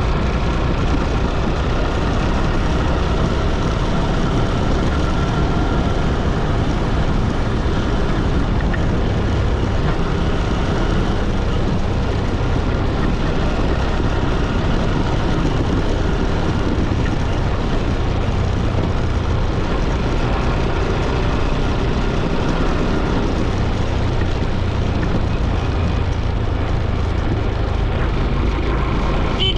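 Steady rush of wind and road noise heard while riding along a road, with vehicle engine noise mixed in.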